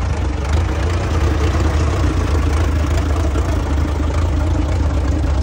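Engine idling steadily with a deep, even rumble.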